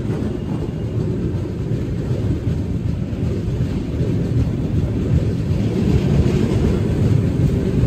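Tamil Nadu Express passenger train running at speed through a station without stopping: a steady low rumble of wheels on track, growing a little louder in the second half.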